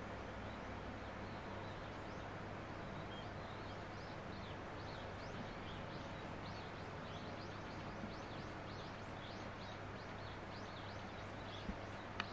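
Faint chirping of small birds: many short, falling chirps from about four seconds in, over a steady low hum. A single soft tap near the end.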